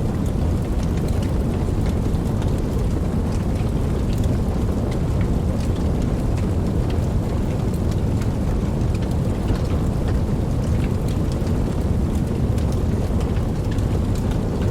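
Steady rain: a deep, even rush with scattered sharp ticks of drops striking.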